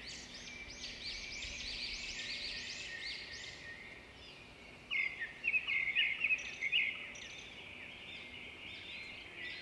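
Birdsong: many small birds chirping in quick, overlapping high chirps, with a louder run of sharper chirps about five seconds in.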